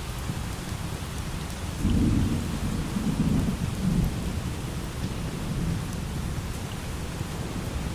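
Thunder rumbling in three swells between about two and four seconds in, over steady light rain.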